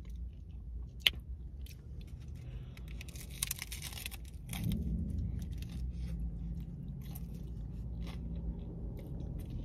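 Mouth sounds of someone biting into and chewing a crunchy hard taco shell. The crisp crunching is strongest about three to four seconds in, then gives way to quieter chewing.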